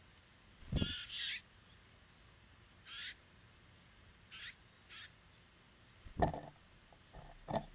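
Small birds at a tube seed feeder: a few short scratchy bursts, a double one about a second in, then single ones a few seconds apart, followed by two dull knocks near the end.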